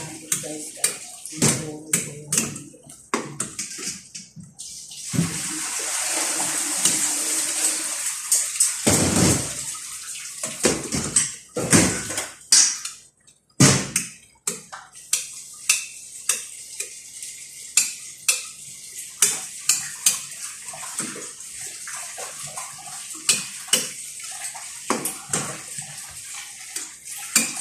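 Kitchen clatter: dishes and metal utensils clinking and knocking many times, with a few seconds of running water about five seconds in.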